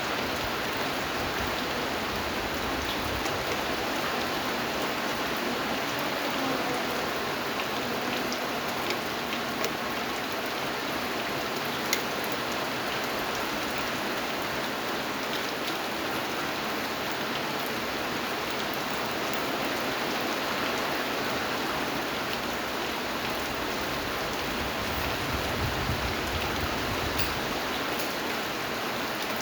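Steady rain falling, an even hiss with scattered sharper drop ticks, one louder tick about twelve seconds in.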